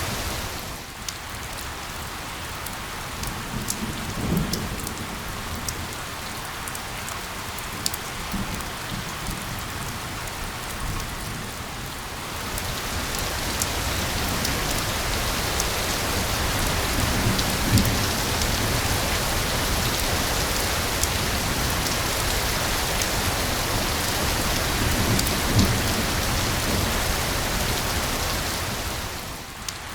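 Steady rain falling on a surface, with scattered louder drops. The rain grows louder and brighter about twelve seconds in, and brief low rumbles come three times.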